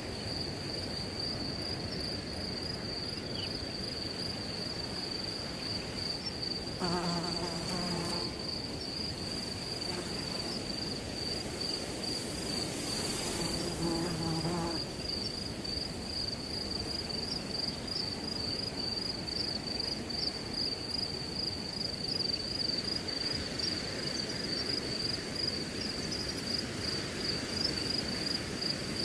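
Crickets chirping in a steady high trill over wind rustling through grass. Twice, about 7 and 14 seconds in, a low buzz of about a second from a flying insect passing close.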